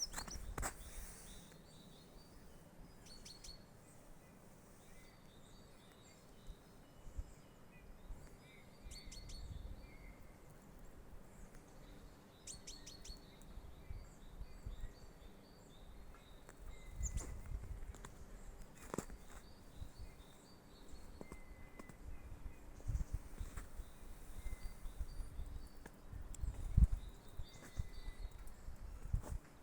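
Small birds chirping in short, scattered calls and quick series of notes, with a few low thumps.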